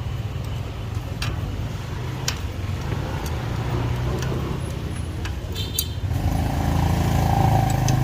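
Steady hum of motor vehicle engines with a few sharp clicks. About six seconds in, a louder engine sound swells up close.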